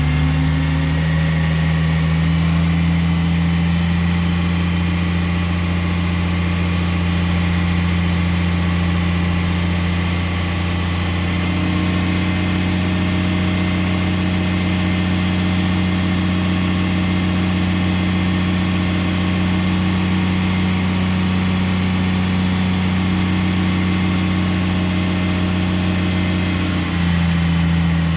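Truck engine running steadily at raised revs to build air-brake pressure, its pitch settling slightly lower near the end.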